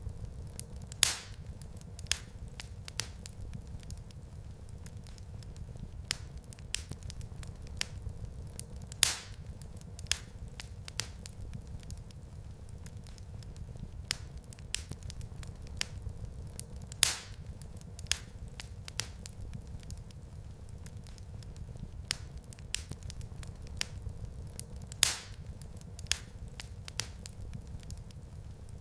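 Wood fire crackling in a fireplace: a steady low rumble of flames under frequent small crackles, with a sharp, louder pop about every eight seconds.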